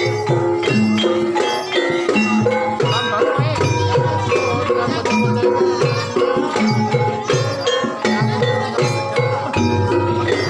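Banyumasan gamelan music accompanying the ebeg hobby-horse dance: struck metallophone tones in a repeating melody over regular kendang drum strokes, keeping a steady beat.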